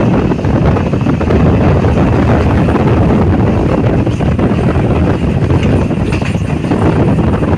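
Steady, loud running rumble of a moving train, with wind buffeting the microphone.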